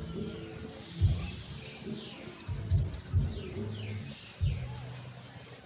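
Small birds chirping: rapid runs of high chirps and several short falling calls, with a few low thumps near the start and middle.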